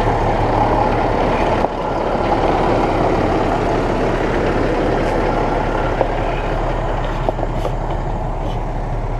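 A heavy farm-vehicle engine running steadily up close, with a low, even hum. It drops a little in level a couple of seconds in.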